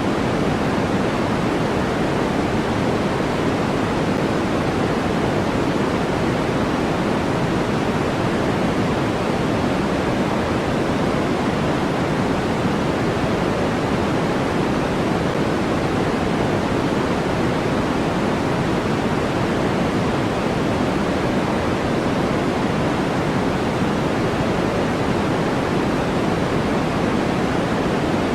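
Steady, unchanging electronically generated noise of the kind sold as white noise for sleep, weighted toward the lower tones, so it sounds like a soft, deep rush rather than a bright hiss.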